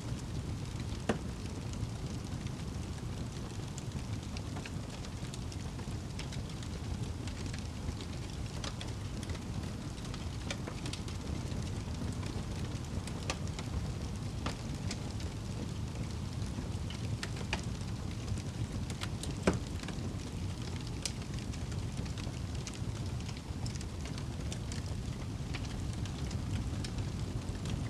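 Campfire crackling and popping, scattered sharp snaps over a steady low rumble, with the loudest pop about 19 seconds in.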